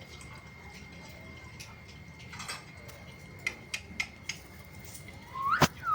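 Pet parrot giving a short, loud rising whistle-like call near the end, with a sharp click, after a few scattered sharp clicks and a soft rustle.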